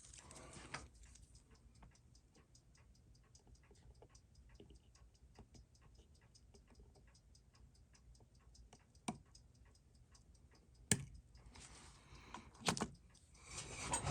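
Seiko 6139 automatic chronograph movement ticking faintly and evenly, about six ticks a second, the beat of a running balance. In the last few seconds there are several sharp clicks and some rustling from tools and hands handling the watch.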